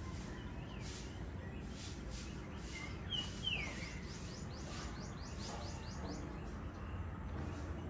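A bird calls over a steady low background of outdoor noise: two short chirps and a falling note about three seconds in, followed by a quick run of high, thin falling chirps.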